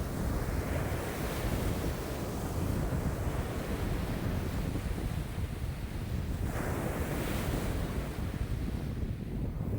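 Wind-driven lake waves washing and breaking on the shore, with strong wind buffeting the microphone in a low rumble; one louder wash of a wave about six and a half seconds in.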